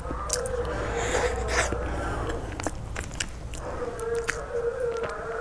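Close-miked chewing of soft food, with wet mouth clicks and smacks throughout. A closed-mouth hummed 'mmm' comes in twice, about half a second in and again about four seconds in.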